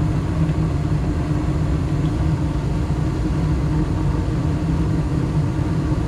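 Gas furnace running in heat mode, its inducer motor and burners making a steady hum. The manifold gas pressure, measured at 4 inches of water column, is being turned down toward 3.5.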